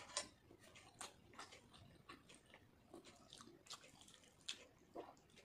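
Soft, wet close-up chewing and lip-smacking of a mouthful of panta bhat, rice soaked in water, eaten by hand. It comes as quick irregular smacks and clicks, several a second.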